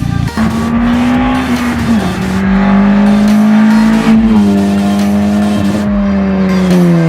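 Car engine running at high revs with a steady high pitch that steps down slightly twice, then falls as the car decelerates near the end.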